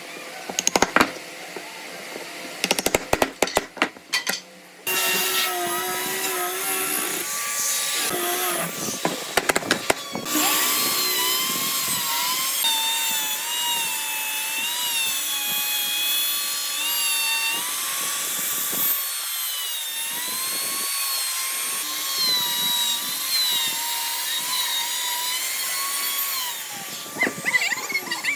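Power tool working wood: a few knocks and clicks, then the motor runs steadily from about five seconds in. Its pitch dips and recovers repeatedly as it bites into the wood under load.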